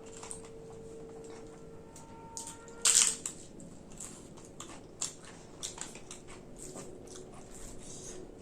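A person biting into crisp papad with one loud crunch about three seconds in, then chewing it with a run of small crunches.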